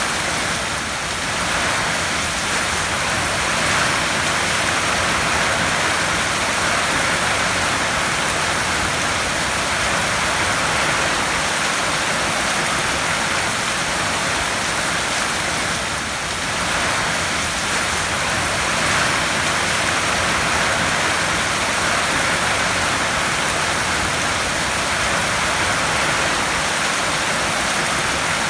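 Heavy rain drumming steadily on a tin roof: a dense, even hiss of countless drops on the metal, easing slightly for a moment twice.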